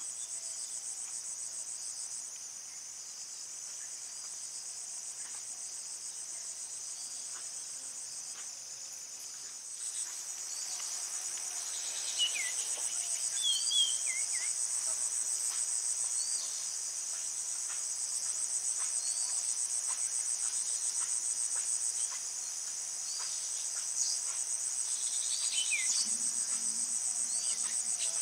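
Dense chorus of crickets and other insects, a steady high-pitched trilling that swells about a third of the way in. A few short, falling chirps are heard over it near the middle and again near the end.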